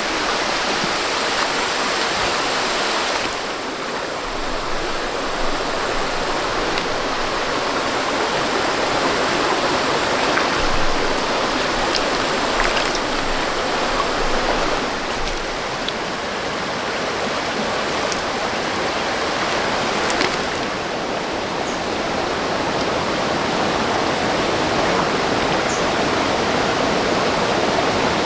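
Flowing water rushing steadily, with a few faint clicks.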